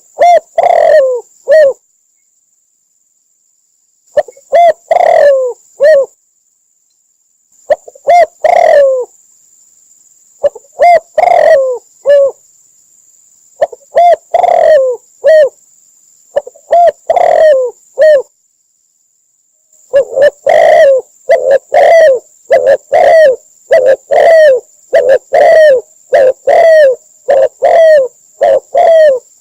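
Spotted dove cooing: loud, repeated phrases of a few coos with pauses of a second or two between them, then an unbroken run of coos at about one and a half a second from about two-thirds of the way through.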